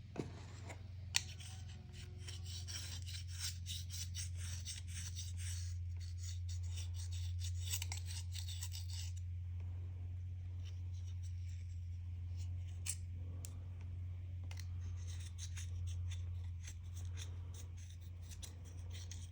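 A blade scraping polarizer film residue off the glass of an LCD panel in quick, repeated strokes. The strokes are dense for the first nine seconds or so, then fainter and sparser. A steady low hum runs under them.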